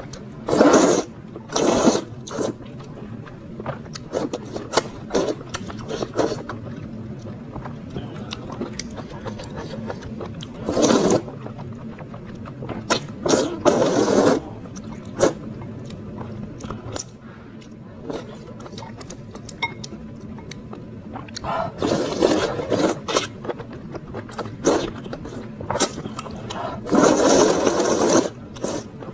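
Close-miked eating of a bowl of spicy noodles: several noisy bursts of noodle slurping, the longest near the end, with chewing and small clicks in between.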